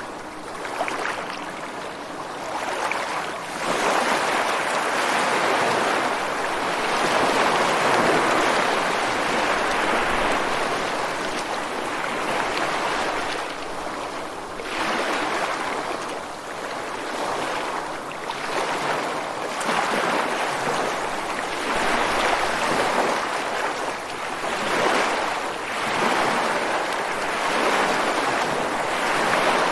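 Ocean surf breaking on a beach: a continuous wash of water noise that swells and eases every few seconds as each wave comes in.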